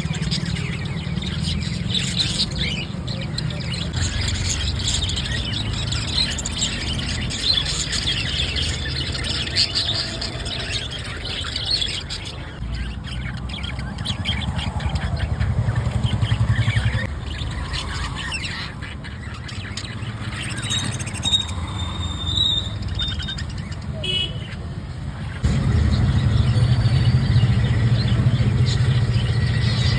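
Small parrots chirping and calling in short, scattered notes over a steady low rumble. The rumble grows louder near the end.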